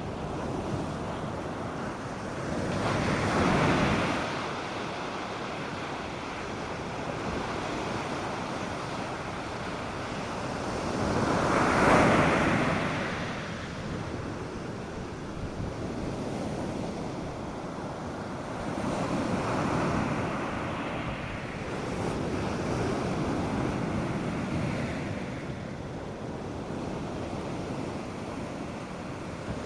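North Sea surf on a beach: a continuous wash of waves with slow surges as breakers come in, four in all, the loudest about twelve seconds in.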